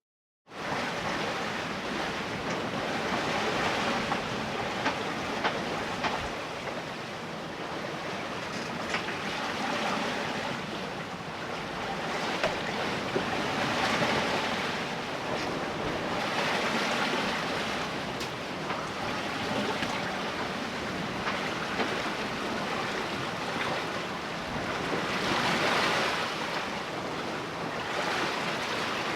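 Sea water rushing along a sailboat's hull and waves slapping as it sails offshore, the rush swelling and easing every few seconds, with wind.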